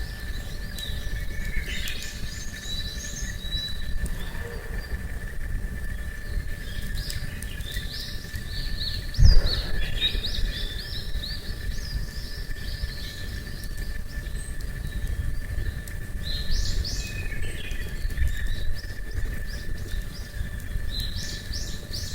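Small birds chirping and trilling on and off, over a steady high tone and a low rumble of outdoor noise. A single thump about nine seconds in is the loudest sound.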